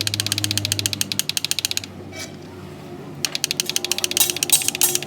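Hand ratchet wrench clicking rapidly, about a dozen clicks a second, in two runs with a pause of about a second and a half between them, as a fastener is turned.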